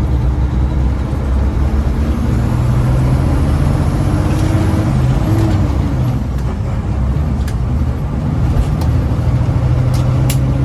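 Caterpillar diesel engine of a loaded Freightliner Classic tractor running under load, a steady low drone whose pitch shifts slightly about halfway through. A few sharp clicks come near the end.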